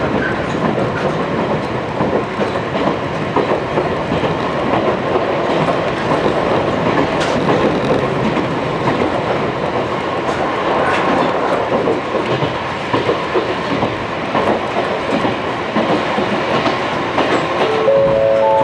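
Running noise of a Wakayama Electric Railway 2270-series electric train, heard from inside the passenger car: a steady rumble of wheels on rail with light clicks over the joints. A few steady tones start near the end.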